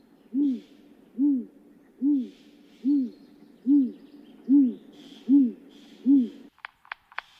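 A series of low hoots, each rising and falling slightly in pitch, repeated evenly a little more than once a second, eight in a row, stopping about six and a half seconds in. A few sharp clicks follow near the end.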